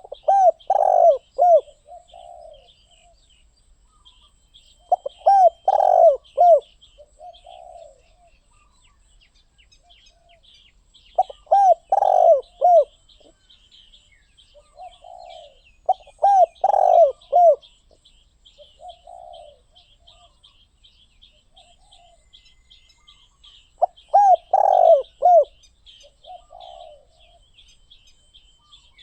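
Spotted dove cooing: a loud phrase of three or four low coos repeated about every five to six seconds, five times, with softer single coos between phrases. Faint chirping of small birds runs behind.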